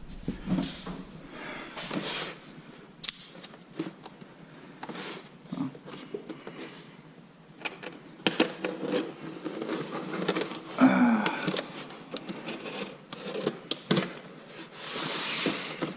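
A parcel being opened and unpacked: scattered clicks, knocks and rustling of packaging being handled, with a longer stretch of rustling near the end.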